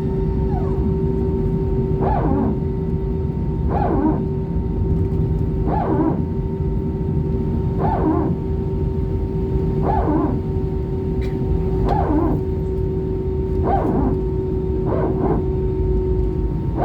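Airbus A320's power transfer unit (PTU) barking: eight short falling whine-growls, about one every two seconds, over the steady hum and rumble of the cabin. This is the hydraulic PTU cycling to even out pressure between hydraulic systems, typical of taxiing on one engine or an engine start.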